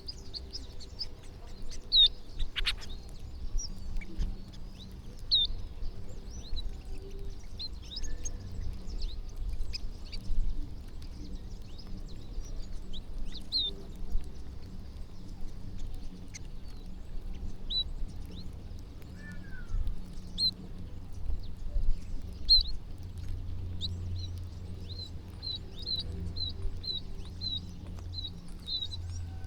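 Small birds chirping, short high chirps scattered throughout, with a quicker run of about two chirps a second near the end, over a low steady rumble.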